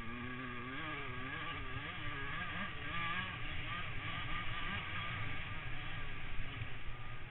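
Motocross motorcycle engines running at high revs, their pitch rising and falling over and over as the throttle opens and closes.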